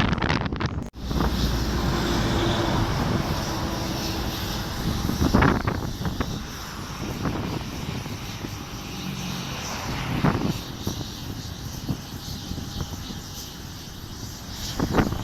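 An airplane's engines running as it passes, loudest a couple of seconds in and slowly fading, with gusts of wind buffeting the microphone.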